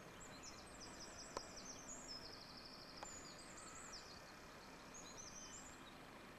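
A songbird singing faintly: a run of high chirps and trills that pauses and resumes, over a low steady hiss, with a couple of faint clicks.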